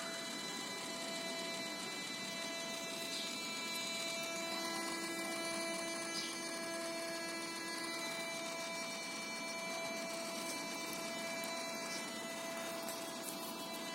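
Steady humming buzz from the supercharger bypass flap on a Mercedes-Benz M111 Kompressor engine, a fault that the owner is asking how to fix. An extra lower hum joins in about four seconds in and drops out about four seconds later.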